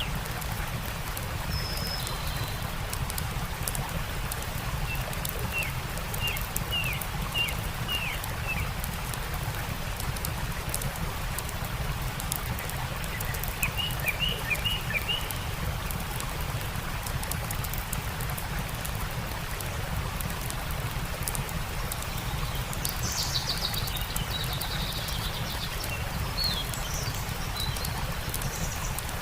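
Campfire crackling with sharp pops over a steady rush of stream water, while a songbird calls: two short runs of quick descending chirps, then higher calls near the end.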